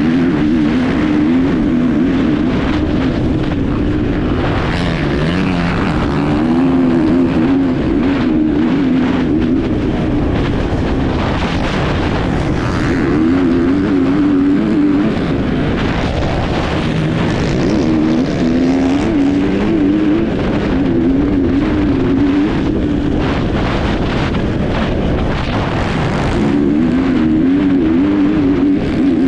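Enduro motorcycle engine heard on board while riding, its revs rising and falling over and over as the throttle is worked, with many short knocks over the engine noise.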